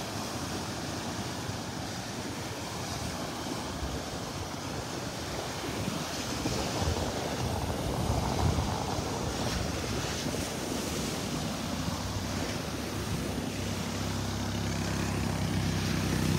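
Gulf of Mexico surf washing onto the beach, waves kicked up by an overnight storm, with wind on the microphone. Near the end a low, steady engine hum comes in and grows louder.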